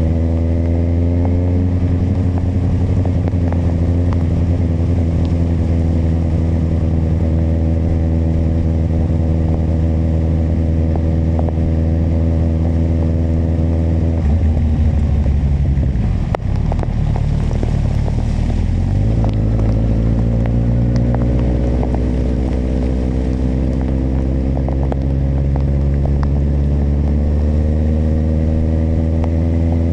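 Kawasaki motorcycle engine running under way, its note easing down slowly for the first half. About halfway through the note breaks up and drops briefly, then it rises steadily as the bike accelerates through the last third.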